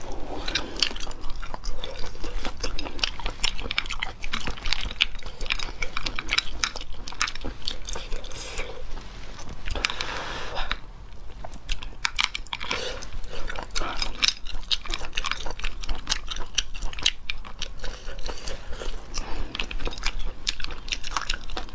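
Close-miked mouth sounds of eating cooked sea snails: rapid wet clicks and smacks of chewing and sucking the meat, with a longer breathy rush of noise about ten seconds in.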